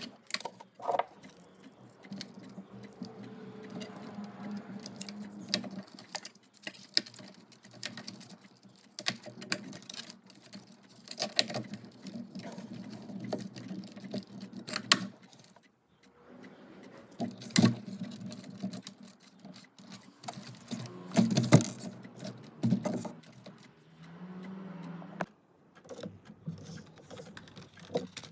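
Irregular clicks, knocks and rustling from a plastic RC crawler and its packaging being handled, with a few louder knocks and two stretches of a low steady hum.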